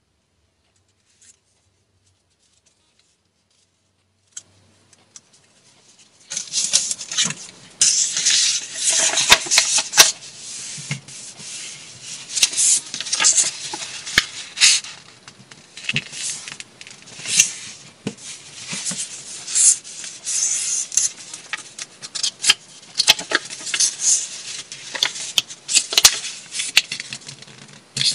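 Near silence, then about six seconds in a steady run of rustling and scraping with many sharp clicks, like objects being handled and rubbed.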